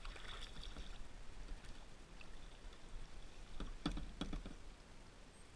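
Faint clicks and knocks of fishing tackle being handled on a kayak, with a cluster of sharper knocks about four seconds in, over a faint outdoor hush.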